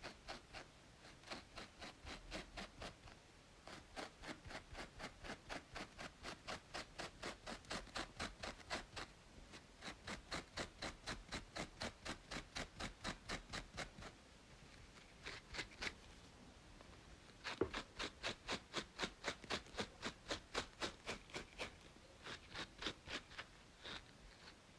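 Rapid, rhythmic scratching on a scalp between braids, about three to four strokes a second, in runs with brief pauses.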